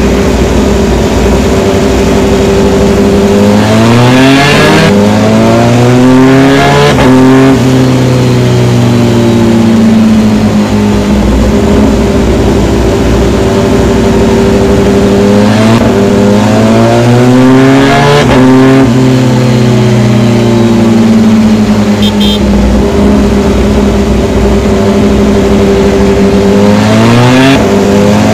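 Rusi Gamma R200 motorcycle engine and exhaust under way. It revs up through the gears several times, the pitch climbing and then dropping at each shift, and runs at a steady pitch in between.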